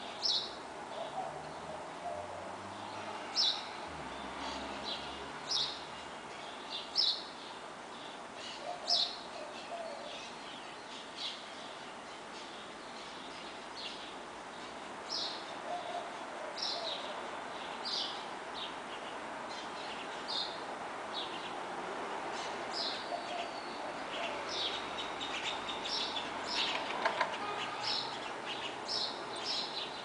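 Songbirds chirping: many short, sharp chirps at irregular intervals, coming thicker near the end, over a steady hum of distant traffic.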